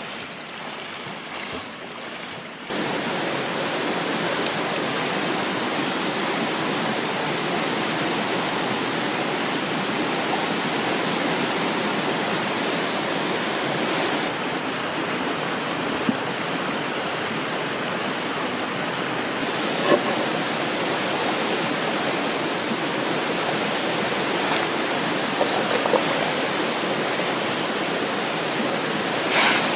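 A river rushing steadily, with a few light clicks from camp handling.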